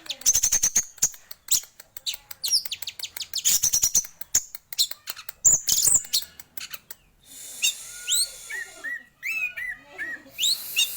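Male orange-headed thrush singing vigorously: a fast run of sharp clicking and chattering high notes, then, from a little past halfway, a series of short whistled notes and quick sweeps.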